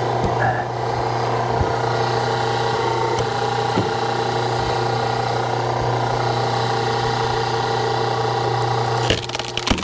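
Hydraulic log splitter's power unit running with a steady hum. Near the end the hum dips and a quick run of sharp cracks sounds as a knotty log is forced apart.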